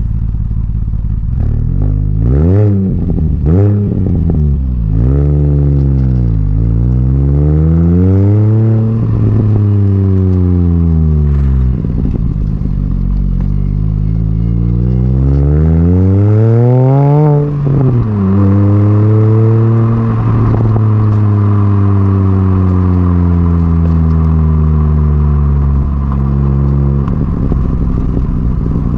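Mini Cooper S R53's supercharged 1.6-litre four-cylinder running through a stainless-steel cat-back exhaust. It is blipped a few times, then revved up and down in longer sweeps. A long rising pull cuts off sharply after about seventeen seconds, and the revs then fall away slowly.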